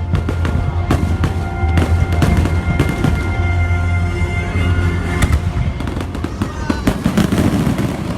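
Fireworks bursting and crackling in rapid succession over a show's music soundtrack; the music ends about five seconds in while the bangs and crackle carry on.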